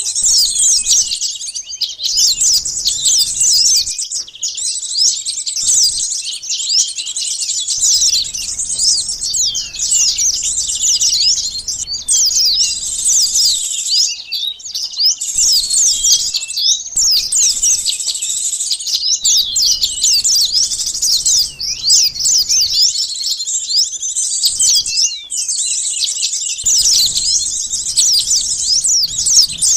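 Sunbirds chirping and twittering in a dense, fast stream of high, quick down-sweeping notes, broken by short pauses every few seconds. This is a bird-luring call track used to draw small birds in.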